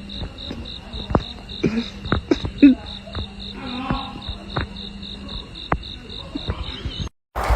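Insects chirping in a rapid, even pulse of high chirps, about five a second, with scattered sharp clicks and knocks underneath. It cuts off abruptly near the end.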